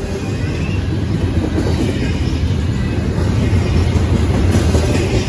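Double-stack intermodal container train rolling past close by: a steady, loud rumble of steel wheels on rail and rattling well cars, growing a little louder about a second in.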